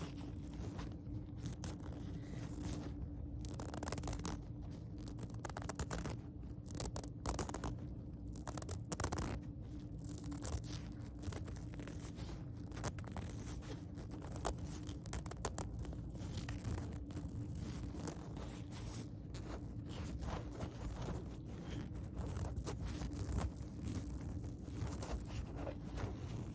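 Hands handling plastic packaging: irregular scraping, rustling and small clicks, with a faint steady hum underneath.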